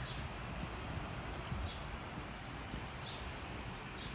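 Steady seaside ambient noise with a few short, high bird chirps.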